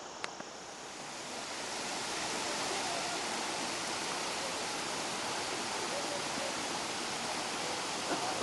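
Steady rush of falling water from a waterfall, a broad hiss that swells over the first second or two and then holds, with one short click near the start.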